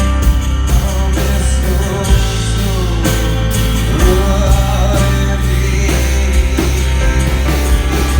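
Rock band playing live: drum kit, bass and electric guitars, with singing.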